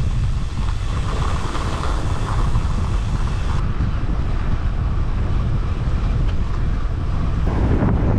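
Strong wind buffeting the microphone of a cyclist riding into a headwind: a steady low rumble with a hiss above it.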